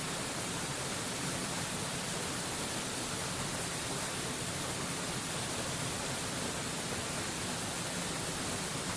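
Waterfall rushing as a steady, unchanging hiss of falling water, even across the highs and lows with no breaks or separate splashes.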